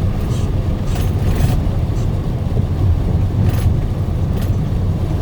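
Steady engine and road rumble of a moving truck heard from inside the cab, with a low, even drone. A few short hissing swishes come and go over it.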